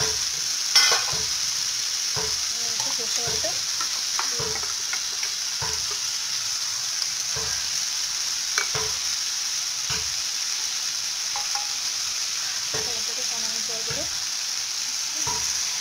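Pui shak (Malabar spinach) and potato pieces sizzling steadily in oil in a nonstick frying pan, with scattered light utensil taps, the sharpest about a second in, as mustard paste is spooned in.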